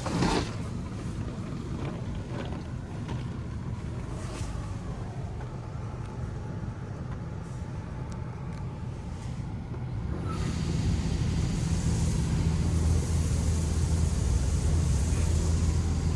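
Touchless Pro Navigator automatic car wash running with a steady low rumble and a few faint clicks. About ten seconds in, a louder hum and hiss start up and continue.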